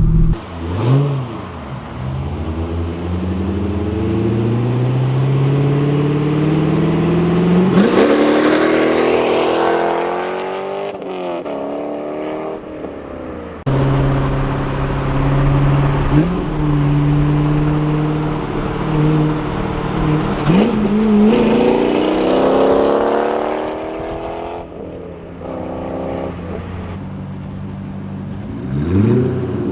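C5 Corvette's 5.7-litre V8 with its mufflers deleted, the engine note climbing in pitch several times under acceleration and dropping back between pulls. The sound jumps abruptly about fourteen seconds in.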